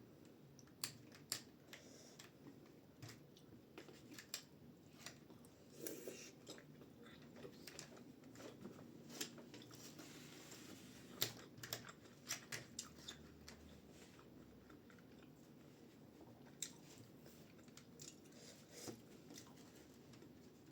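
Quiet chewing while eating dumplings, with irregular sharp mouth clicks and smacks scattered throughout; the loudest comes about halfway through.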